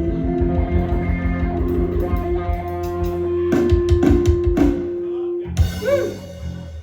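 Live band music with guitar and drums playing a steady beat under held chords, ending on a final hit about five and a half seconds in and then dying away.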